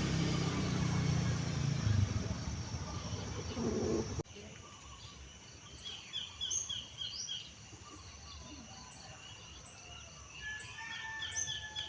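A motor vehicle's low engine rumble, slowly fading, then an abrupt cut about four seconds in to quieter birdsong: quick runs of short falling chirps, heard twice.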